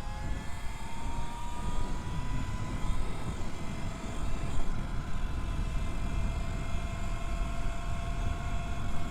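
E.Ride Pro SS 3.0 electric bike's motor whining as it rides. The whine rises in pitch over the first couple of seconds as the bike speeds up, then holds steady at cruising speed, over wind rumble on the microphone.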